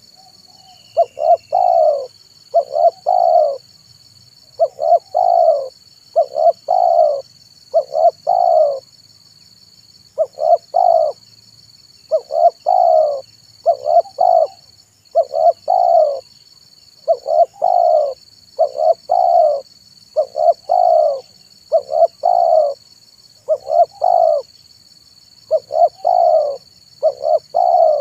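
Spotted dove cooing: a repeated phrase of a couple of short notes and a longer coo, about one phrase every one and a half seconds. A faint steady high whine runs behind it.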